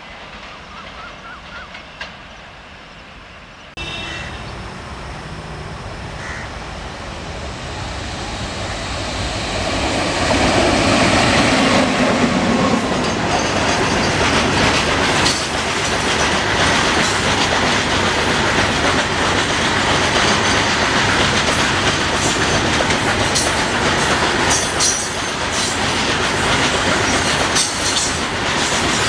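Freight train of loaded BOXN open wagons hauled by an electric locomotive passing close by. Its rumble builds over several seconds into a loud, steady clatter of wagon wheels over the rails.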